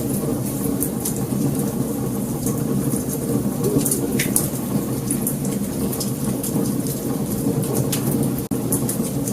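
Wood fire burning, with a steady low rumble and frequent sharp crackles and pops.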